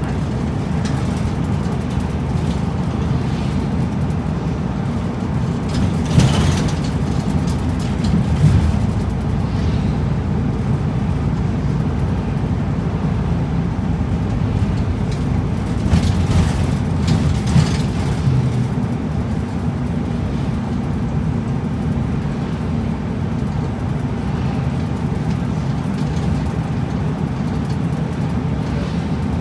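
Route bus heard from inside the cabin while driving: a steady engine hum and road noise, with a few brief knocks or rattles along the way.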